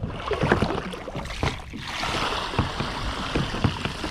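Water sloshing and splashing around a kayak, with scattered small knocks and clicks; a hiss of moving water grows stronger about halfway through.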